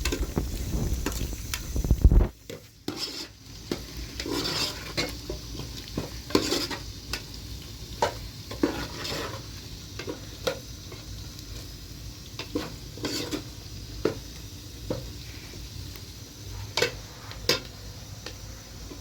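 Irregular scrapes and clinks of objects being handled, after a brief low rumble in the first two seconds.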